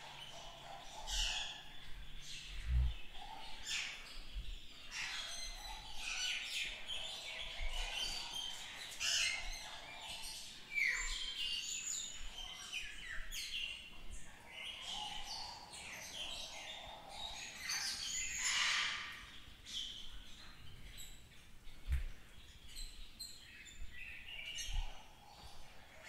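Songbirds chirping and calling throughout, many short overlapping notes and quick pitch sweeps. A few dull low thumps come in between, one about three seconds in and two near the end.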